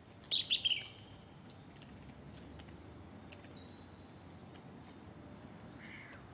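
Birds chirping. About half a second in comes a quick run of three or four loud chirps, each falling in pitch, followed by faint high chirps throughout and a softer call near the end, over a steady low background noise.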